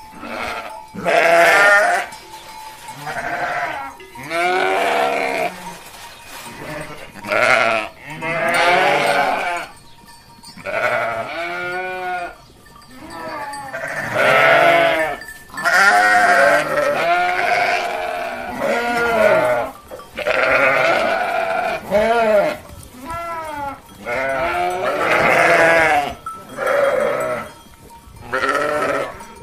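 Goats and sheep bleating: about twenty separate quavering calls, one after another with short gaps, some of them loud.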